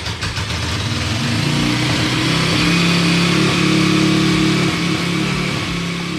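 Apollo RFZ 140cc pit bike's single-cylinder four-stroke engine running just after starting. The revs climb a little over the first couple of seconds, then settle into a steady fast idle.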